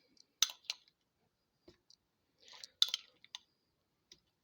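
Light clicks and taps of kitchen utensils and dishes being handled while food is put together: two sharp clicks about half a second in, then a soft rustle and a quick cluster of clicks near the three-second mark.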